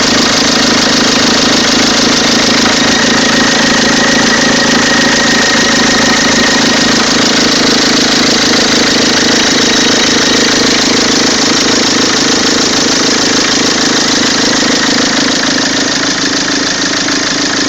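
Peugeot 206 2.0 HDi four-cylinder turbodiesel engine running steadily at idle, making the odd engine noise its owner is asking about.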